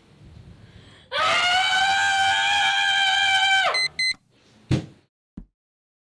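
A woman lets out one long, loud scream held at a steady pitch for about two and a half seconds, dropping off at the end. Then a digital alarm clock gives two short electronic beeps, followed by a sharp knock and a fainter one.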